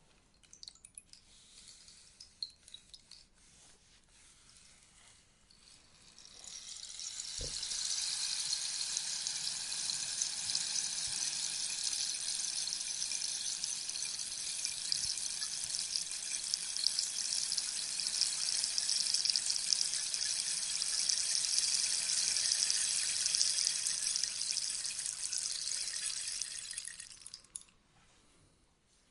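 A rainstick's pellets falling through its tube like rain. A few scattered ticks come first, then a dense, steady pattering swells in about six seconds in and holds for roughly twenty seconds before fading out near the end.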